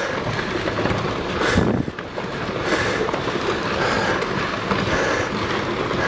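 Rockfall: rocks tumbling and clattering down a slope in a continuous rumble, with a louder surge about a second and a half in.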